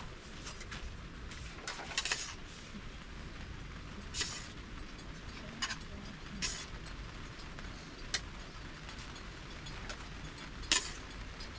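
Metal utensil clinking against dishes, a handful of separate sharp clinks spaced a second or two apart, over a steady low background noise.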